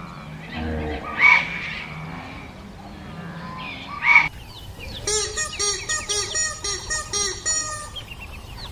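Fowl calling: two loud, short calls a few seconds apart, then a quick run of repeated calls, about three a second.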